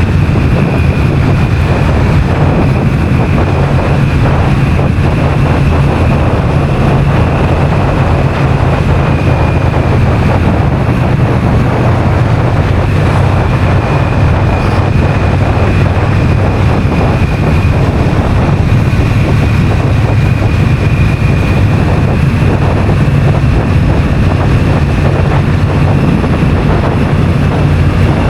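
Honda CMX1100 Rebel's parallel-twin engine running steadily while being ridden at a constant pace, with wind rushing over the microphone.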